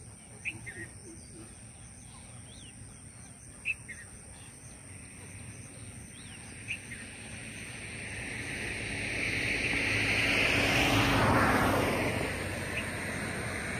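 A few short, high bird chirps, then a passing vehicle: its noise swells from about six seconds in, is loudest near eleven seconds and then fades. A thin, steady high tone runs underneath.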